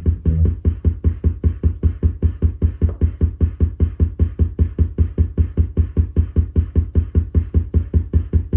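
Electronic synthesizer jam: a low bass note pulsing rapidly and evenly, about five times a second, like a drum-machine pattern, with no held chords over it.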